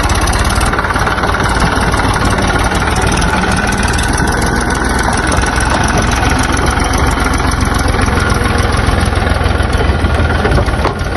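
Tractor diesel engine running steadily with a low, even rumble.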